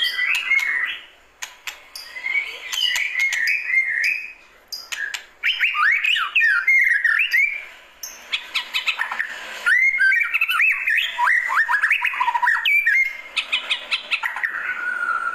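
White-rumped shama (murai batu) singing: rapid phrases of varied whistled notes sliding up and down, mixed with sharp clicks, in several bursts separated by brief pauses.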